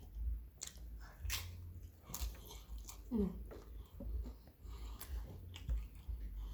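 Close-miked chewing and crunching of Mexican pizza, with irregular crisp crackles as bites are worked, and a short hum from the eater about three seconds in.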